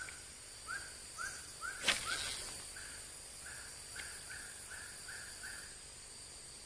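A bird calling a rapid series of short, slightly rising notes, about three a second, which stops near the end; a sharp click about two seconds in.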